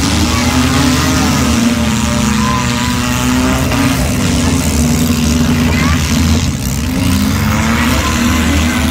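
Several demolition derby cars' engines running and revving together, loud and continuous, with pitches rising and falling as the drivers rev.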